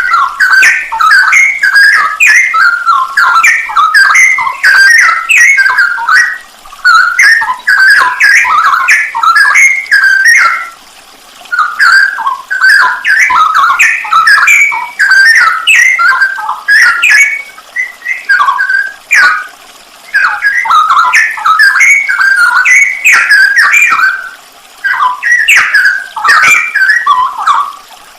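Straw-headed bulbul (cucak rowo) singing loudly in rapid, varied phrases, nearly without a break, with a few short pauses, the longest about ten and a half and twenty-four seconds in.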